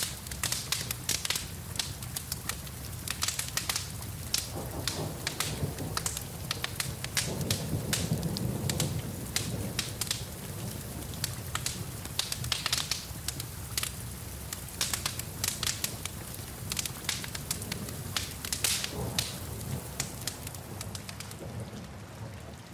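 Wood fire crackling with many sharp pops over a steady patter of rain. A low rumble swells briefly about eight seconds in.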